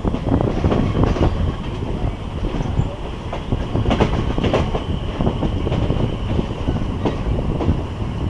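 Passenger train running along the track: a steady low rumble with irregular clacks and knocks from the wheels over the rails.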